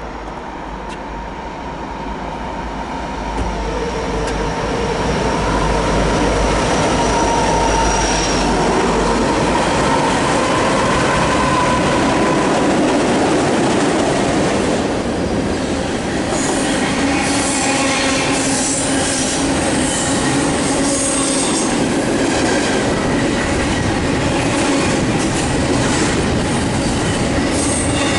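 Union Pacific double-stack intermodal freight train passing at about 46 mph. The diesel locomotives' deep rumble builds over the first few seconds as they approach and pass beneath. The container cars then roll by with steady wheel-on-rail clatter and high-pitched wheel squeal in the second half.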